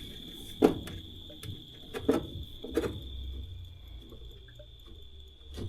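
Scattered clicks and light knocks of hands handling furnace parts and tools, over a steady high-pitched whine and a low hum.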